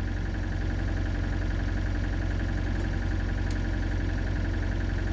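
Excavator's diesel engine running steadily with an even low hum, with a faint click or two about three seconds in.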